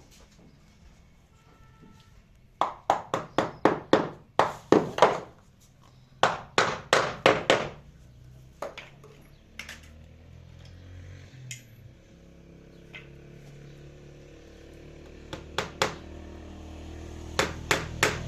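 Sharp knocks in two quick runs, the first of about ten at roughly four a second and the second of about six, then a few single knocks spaced out through the rest.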